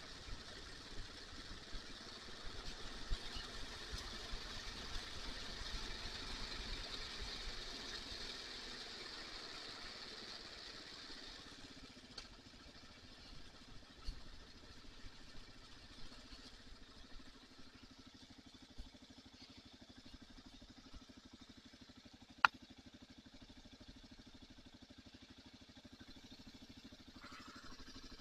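Kawasaki KLR motorcycle's single-cylinder engine running during a ride, with wind hiss that is strongest in the first third and then fades to a steadier low engine drone. A single sharp click about two-thirds of the way through.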